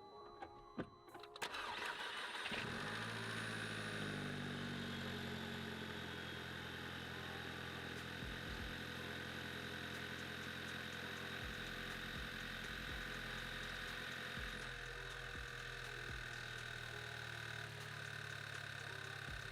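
Volkswagen Mk6 GTI's 2.0-litre turbocharged four-cylinder cranking about a second and a half in, catching within a second, then idling steadily. It starts now that a rat-chewed wire, which the mechanic thinks is the ground for a relay feeding the engine control unit, has been jumped.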